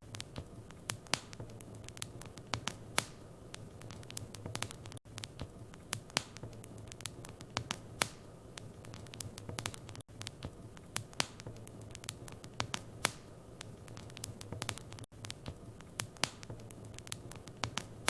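Wood fire burning in a fireplace, crackling with irregular sharp pops over a steady low rumble. The sound cuts out for an instant about every five seconds.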